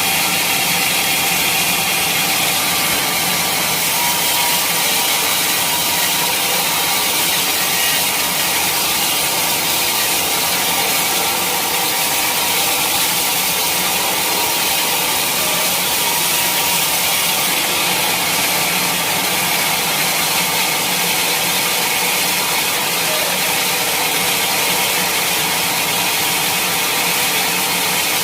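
Sawmill saw cutting through a teak log: a steady, loud sawing noise with a strong high hiss that holds unchanged throughout.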